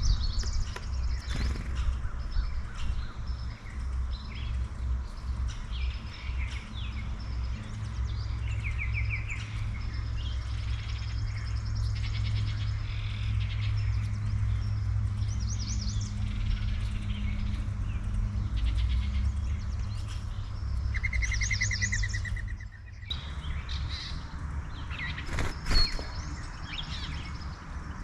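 Wild songbirds calling and chirping, with a few short, fast trills, over a steady low rumble. There is a single sharp tap a little before the end.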